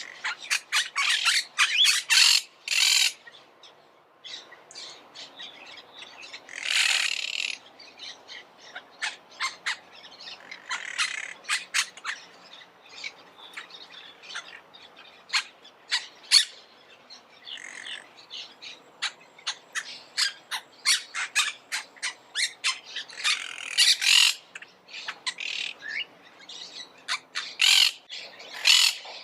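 Monk parakeets calling: a steady stream of short, sharp squawks, broken by louder bursts of dense chatter near the start, about seven seconds in, and twice near the end.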